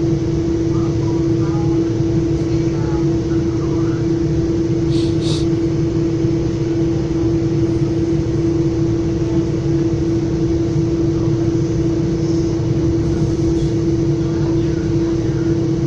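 Metra commuter train running, heard from inside the passenger car: a constant low rumble under a steady hum, with two short clicks about five seconds in.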